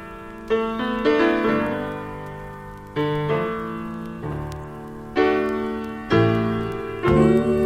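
Gospel piano playing slow, full chords, each struck and left to ring and fade. A wavering held tone joins near the end.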